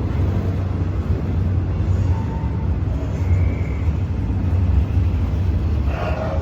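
Steady low rumble of a train at the station, with a few brief faint tones over it.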